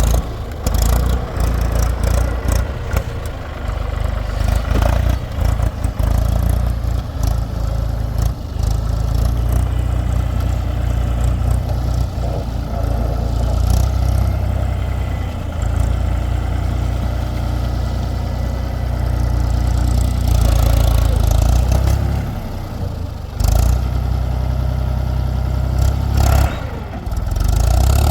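Heavy diesel machinery running at work, with the engine note rising and falling and intermittent clattering knocks and bangs.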